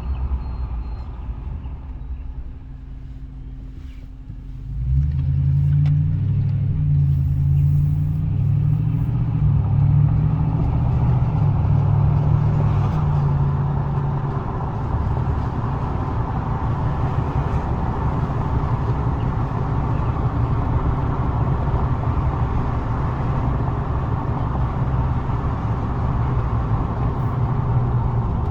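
Toyota Tundra pickup running while cold. About five seconds in it gets suddenly louder with a strong low drone that shifts in pitch for several seconds, then settles into a steady run.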